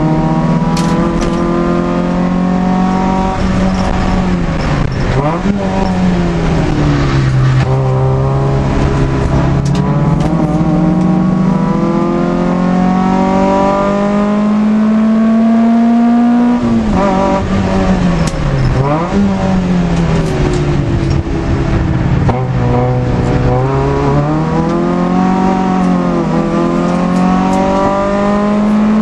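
Citroën AX 16v engine heard from inside the cabin, driven hard on track. The revs climb slowly over about ten seconds in the middle, drop suddenly at a shift, then dip and rise sharply a few times, as when braking and downshifting into corners.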